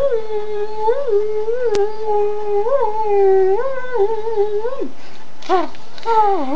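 A person's voice making a strange high-pitched noise: one long held tone with small upward wobbles about every half second. It breaks off about five seconds in, followed by two short rising-and-falling yelps near the end.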